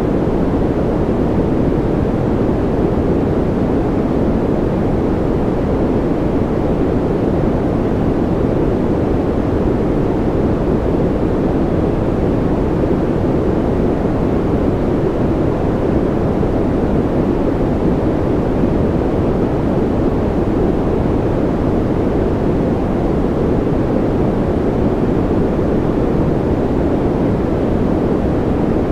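Steady generated sleep noise: an even, unbroken rush, deep and muffled rather than hissy, with no changes in level or pitch.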